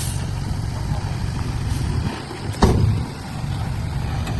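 A heavy diesel engine running with a steady low rumble. A single loud clunk comes a little past halfway.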